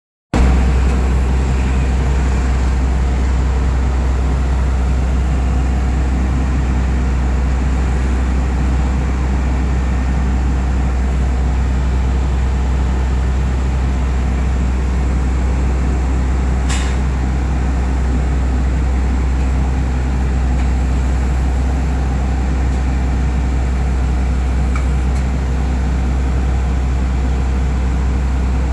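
An engine running steadily at idle, a constant low rumble with no change in speed. There is one short sharp click about 17 seconds in.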